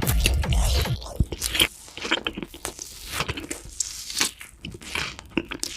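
Crunchy food being bitten and chewed close to the microphone, in irregular sharp crunches, the loudest soon after the music stops. Electronic music with a thumping beat plays for about the first second and then cuts off.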